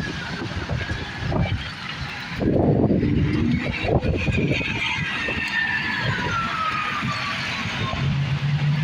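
A passing vehicle over rumble and gusts of wind on the microphone, with a whine that slowly falls in pitch from about two and a half seconds in.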